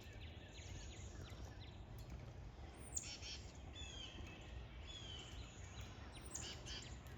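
Songbirds singing faintly: short high phrases that sweep down in pitch, repeated every few seconds with shorter notes between, over a steady low outdoor rumble.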